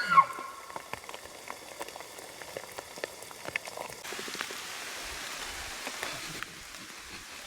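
Steady rain pattering, with many small drops ticking close by; the rain hiss grows louder and denser about halfway through, then eases again near the end. At the very start, a high whistle-like tone slides down and dies away.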